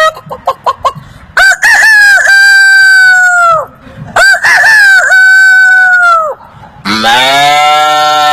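A man imitating a rooster crowing with his mouth: two long crows, each held level and then falling off at the end. Near the end a lower, drawn-out call begins.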